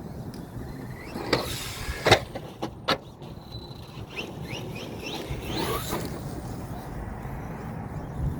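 Redcat Volcano EPX Pro RC monster truck's brushless electric motor whining up in short bursts of throttle. Two sharp knocks come about two and three seconds in, and a quick run of rising whines follows a little past the middle.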